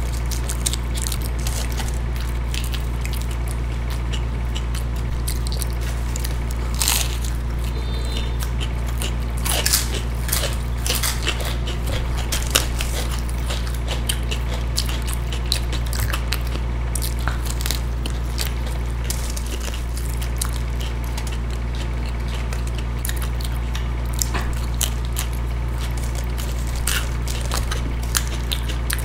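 Close-miked eating sounds: chewing and biting with scattered small clicks of the mouth and food, over a steady low hum.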